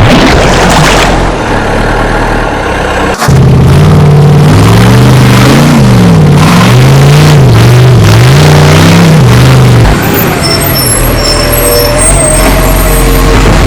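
Loud heavy-vehicle engine sound. It runs rough at first; then, from about three seconds in, its pitch rises and falls over and over as it revs up and down for several seconds, before settling.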